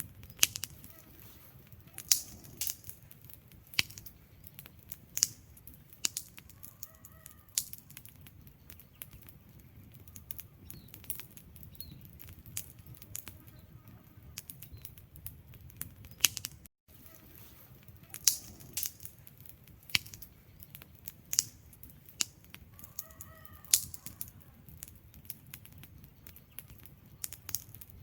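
Wood fire crackling in a fireplace: irregular sharp pops and snaps from the burning logs, a few louder ones every couple of seconds, over a soft low rumble of flame.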